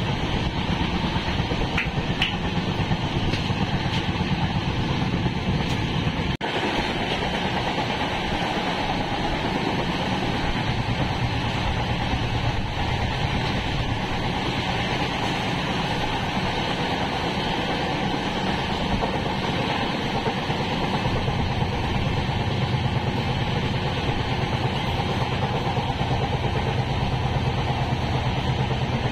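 Express passenger train running, heard from on board: a steady, dense rumble and rattle from the coach. The sound dips for a split second about six seconds in.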